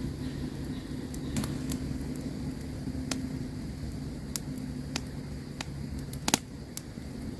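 Campfire crackling: scattered sharp pops and snaps, the loudest a little past six seconds in, over a low steady rumble with a faint hum.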